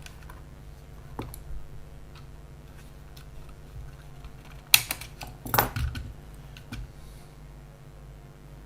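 Small parts of a Kodak half-frame film camera being handled and fitted during a repair: scattered faint clicks, with two sharper clicks a little under a second apart about five seconds in.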